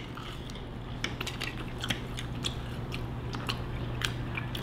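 Someone chewing bacon: irregular crisp crackles and clicks, a few a second, over a low steady hum.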